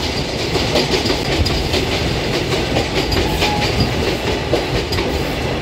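A passenger express train running, heard from aboard a coach: a steady rumble with irregular, rapid clacks of the wheels over the track.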